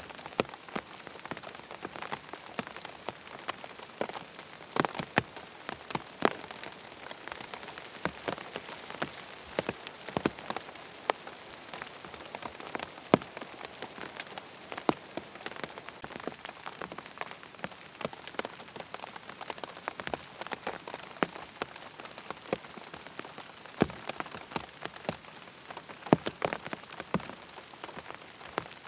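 Steady rain falling, with many sharp individual drop taps at irregular moments over the even hiss.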